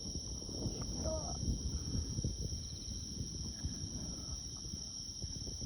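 Steady chorus of insects shrilling over a low rumbling noise, with a brief faint voice about a second in.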